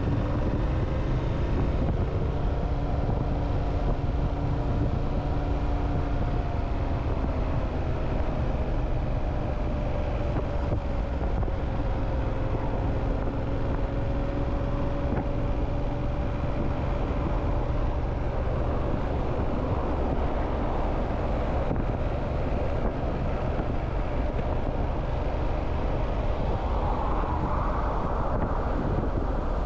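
Motorcycle engine running while riding, with wind rush on the microphone. The engine note falls slowly over the first several seconds, holds steady, then climbs near the end.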